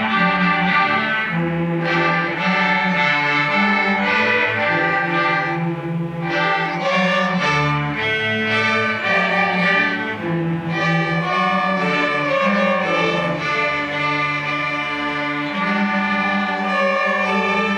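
A string orchestra of violins, cellos and double basses playing a piece, with sustained bowed notes.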